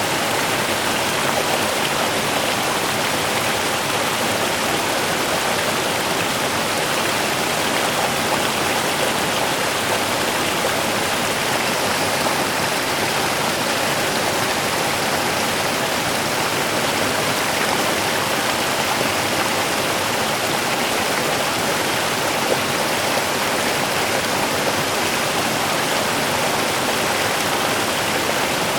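A small river running over stones, making a steady, unbroken rush and babble of water.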